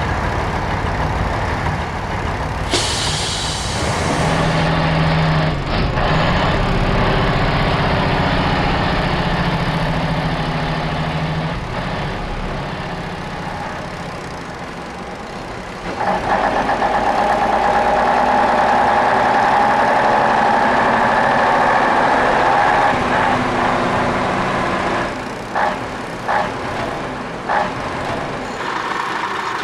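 Heavy diesel trucks running, likely a dubbed sound-effects track, with a short air-brake hiss about three seconds in. The sound changes abruptly several times, as where separate clips are joined.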